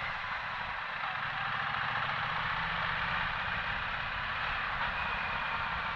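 Motorcycle on the move: a steady rush of wind and road noise over the low, even run of the engine.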